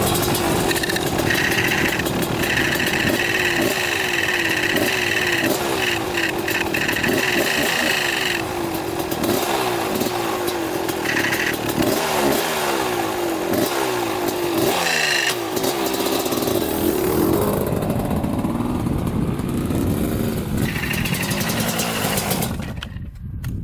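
1995 Kawasaki KX250 two-stroke dirt bike being ridden, its engine revving up and dropping back again and again as it runs through the gears. The engine sound stops abruptly near the end.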